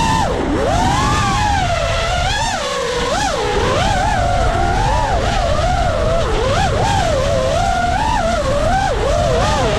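FPV quadcopter's brushless motors whining, the pitch swinging up and down quickly with the throttle, over low wind buffeting on the microphone.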